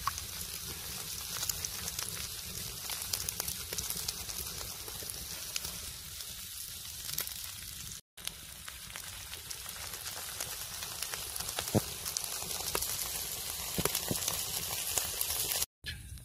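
Fried rice with an egg sizzling on a hot cauldron-lid griddle over a wood fire: a steady fine crackling hiss with scattered sharper pops.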